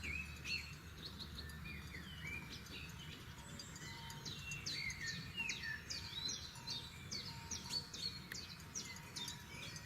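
Several forest songbirds singing and chirping together, with quick down-slurred whistles and short chirps that grow busier partway through. A faint steady low rumble runs beneath.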